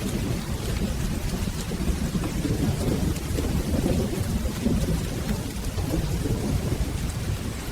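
Steady rain with a continuous low rumble of rolling thunder underneath, dotted with small sharp ticks.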